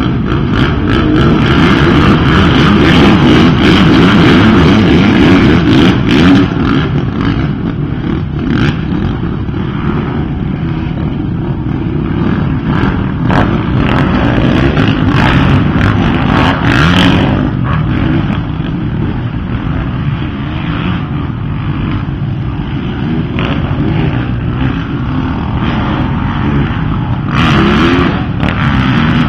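Dirt bike engines racing around a track, revving and changing pitch continuously. They are loudest in the first several seconds, then ease off and swell again.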